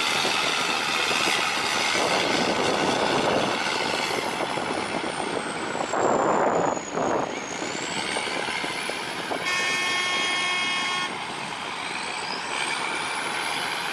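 Boat engine running steadily. A horn sounds once for about a second and a half, around nine and a half seconds in. A louder rush of noise comes around six seconds in.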